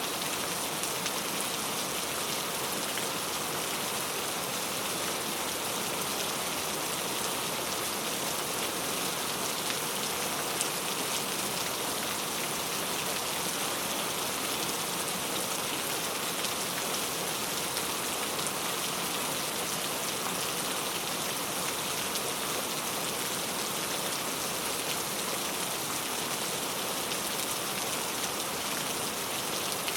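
Steady heavy rain falling, a continuous hiss with dense pattering drops.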